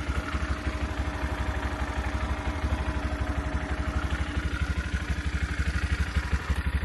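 An engine idling steadily with an even, fast low putter, about ten beats a second.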